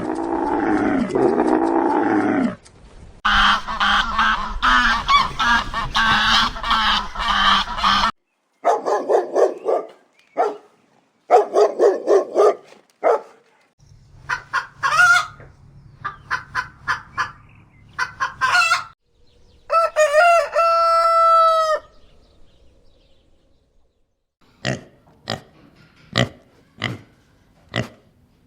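A run of separate animal-call clips: a big cat's roar ending about two seconds in, then repeated bursts of poultry calls. A rooster crows once about twenty seconds in, and short sharp hen clucks come near the end.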